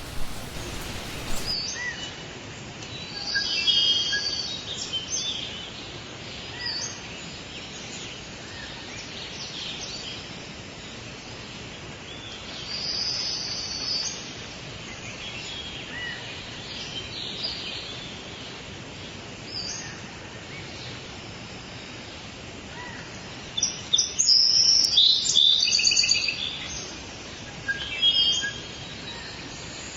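Forest bird chorus: several birds calling and chirping over a steady faint background hiss, with a short burst of rain-like noise at the very start. The calls come in scattered bursts, densest and loudest about 24 to 26 seconds in, with another flurry near the end.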